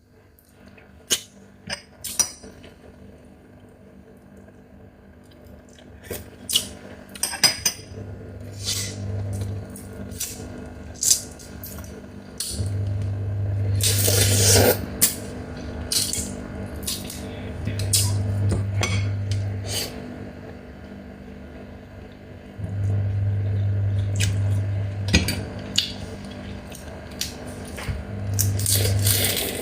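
Sharp clicks and cracks of a Chinese mitten crab's shell being broken and picked apart, with clinks against a dish. Several low rumbles of a second or two come at intervals, and there is a longer crackling burst about halfway through.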